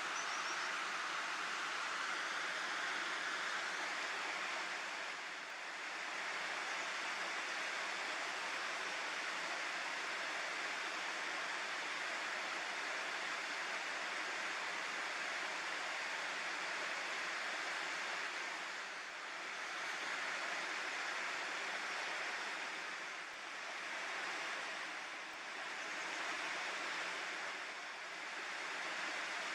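Water rushing steadily over a river weir, an even hiss that dips briefly a few times.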